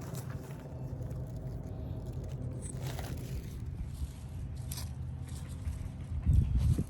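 A steady low mechanical hum with a few clicks, and a louder low rumble near the end.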